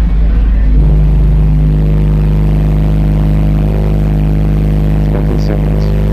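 Car audio subwoofers playing a steady, very deep bass tone at full volume for a loudness demo, the tone settling into one held pitch about a second in.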